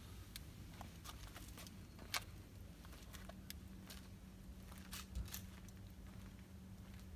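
Wood fire crackling with scattered sharp pops, a louder pop about two seconds in and a few more around five seconds, over a faint steady low hum.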